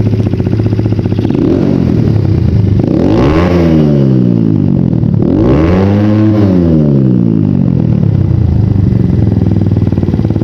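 Supermoto motorcycle engine running steadily, revved up and back down slowly twice, then settling back to a steady run.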